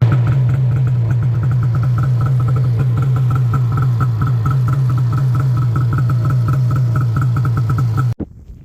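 Snowmobile engine running steadily at an even pitch, with a strong low hum and a quick regular pulsing; it stops abruptly near the end.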